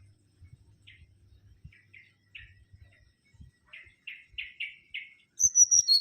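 Mangrove whistler singing: a run of short, scratchy chirps that grows louder, then near the end a loud, clear whistled phrase stepping down in pitch.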